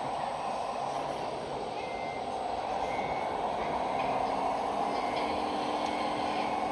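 RC model truck running with a steady whir from its drive, while a reversing beeper sounds short beeps about once a second.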